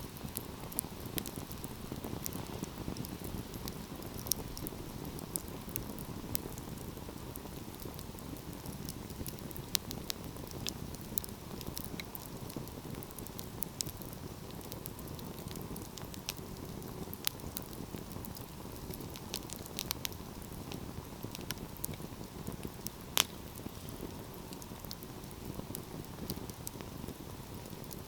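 Wood fire crackling in a fireplace: a steady low rush of burning under frequent small, irregular pops, with one sharper pop near the end.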